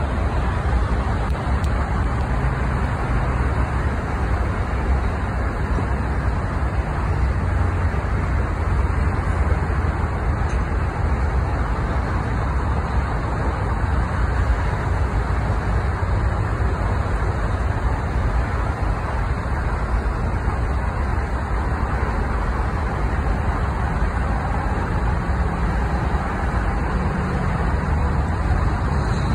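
Union Pacific manifest freight train rolling past: a steady, unbroken rumble of the cars on the rails.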